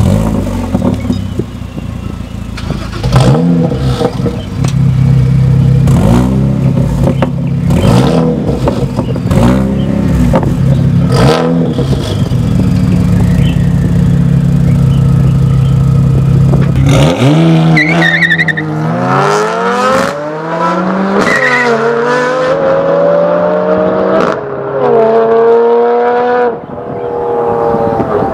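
Turbocharged performance car's exhaust: a run of sharp throttle blips with crackling pops, each rev rising and falling back within about a second. About two thirds of the way through, the car pulls away hard, the engine note climbing and dropping at each of about four upshifts.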